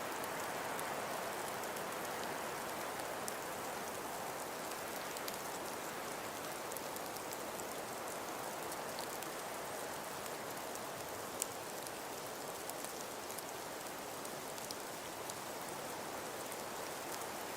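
Wind-driven snowfall: a steady, even hiss with many faint scattered ticks of flakes or grains striking, and one sharper tick about eleven seconds in.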